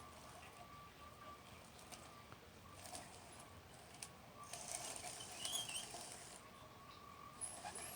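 Faint whine of a model's small electric motor, coming and going, with light pattering and scattered clicks.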